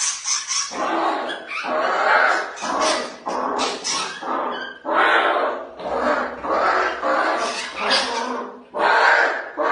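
A dog vocalising over and over, in a string of about ten drawn-out, rough calls, each under a second long.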